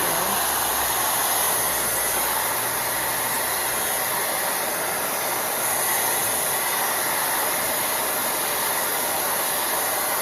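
Negative-ion hair dryer blowing steadily on its highest setting, a constant rush of air with a high hiss.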